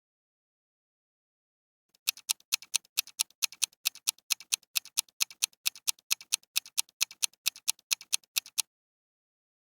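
Clock-style ticking of a quiz countdown timer sound effect: a fast, even run of sharp ticks, about five a second, that starts about two seconds in and cuts off suddenly about a second before the end.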